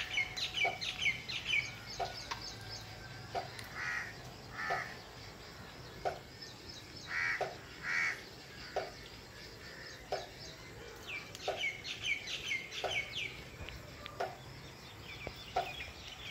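Birds calling: quick runs of short, falling chirps, heaviest at the start and again past the middle, over a short lower note that repeats steadily about every second and a third, with a few paired calls in between.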